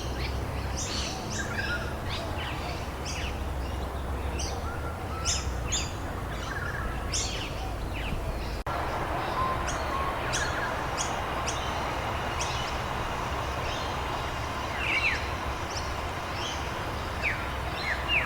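Many wild birds chirping and calling in short, repeated notes over a steady hiss of rain, with a brief dropout about eight and a half seconds in.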